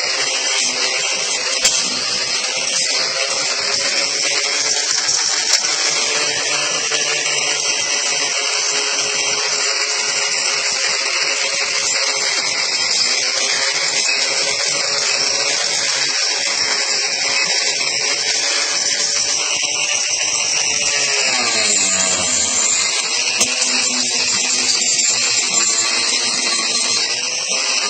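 Electric grinder fitted with a Saburtooth carbide carving bit, running at high speed and grinding into wood with a steady whine and gritty hiss. About two-thirds of the way through its pitch drops sharply, then climbs back up.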